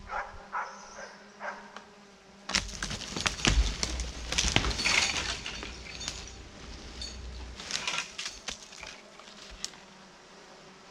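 Frozen snow and spruce branches cracking and snapping, a burst of loud crackling with a heavy low rumble beginning about two and a half seconds in and easing off after about five seconds. A faint steady hum runs underneath.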